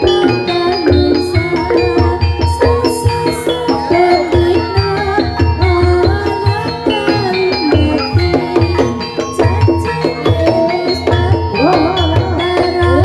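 Gamelan music accompanying an ebeg horse-dance: struck metallophones ringing short pitched notes over steady hand-drum strokes, playing continuously.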